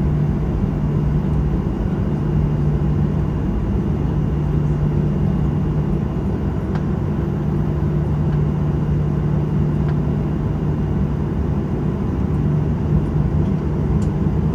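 Steady cabin noise inside a Boeing 737-900ER taxiing on the ground after landing: an even low rumble with a constant hum.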